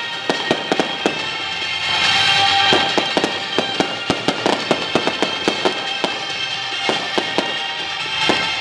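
Fireworks bursting, with rapid sharp pops and crackles several times a second from gold crackling shells, over music playing.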